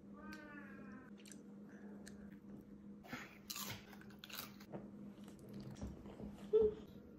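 Crisp crunching as someone bites into and chews a crunchy snack such as crackers or nuts, loudest about three to four and a half seconds in. A brief voice-like sound comes near the start, and a short loud blip comes near the end.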